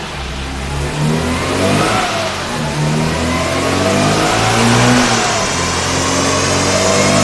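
Classic Mini's A-series four-cylinder engine running under load on a rolling road, its pitch and loudness climbing steadily as it is run up through the revs.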